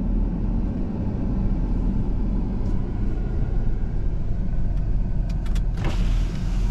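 Vehicle cabin rumble while driving on a dirt road: steady low road and engine noise, with a few sharp clicks and a knock about six seconds in.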